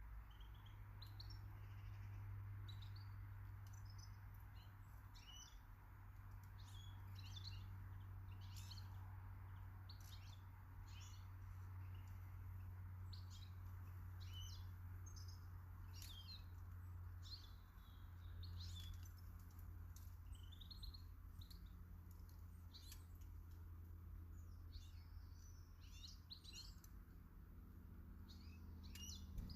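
Small garden birds chirping and calling, faint, with many short, high chirps scattered throughout, over a steady low hum.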